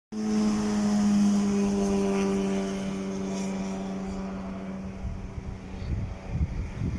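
Airbus A320ceo jet airliner on landing approach: a steady engine whine with several overtones, slowly fading, giving way about five seconds in to an uneven low rumble.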